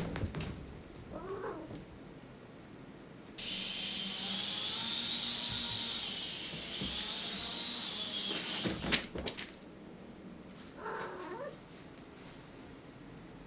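A mini RC helicopter's small electric motor and rotor whine steadily for about five seconds, then stop with a few sharp knocks. A cat meows briefly, once about a second in and once near the end.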